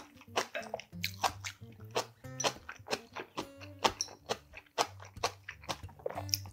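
A person chewing and biting a mouthful of spicy steamed monkfish, with many short wet clicks and crunches, over background music with a steady bass line.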